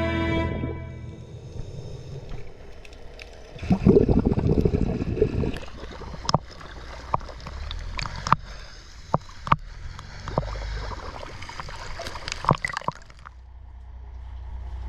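Water gurgling and sloshing against the camera, with a loud bubbling rush about four seconds in and scattered sharp clicks. A low steady rumble builds near the end.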